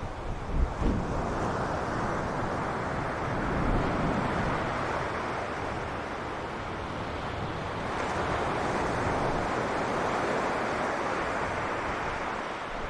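Sea waves washing onto a beach, the surf swelling and easing in slow surges. Wind buffets the microphone briefly, with low thumps, about half a second to a second in.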